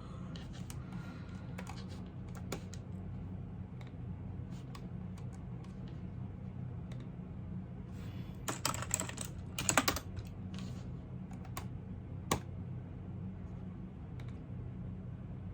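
Typing on a computer keyboard: scattered single keystrokes, with a quick flurry of typing a little past halfway through, over a steady low background hum.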